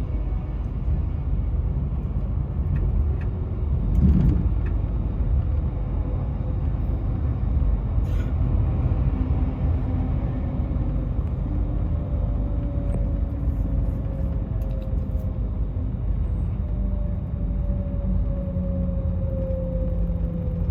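Steady low rumble of travel at speed beside a moving freight train, with a louder bump about four seconds in and a faint tone slowly falling in pitch later on.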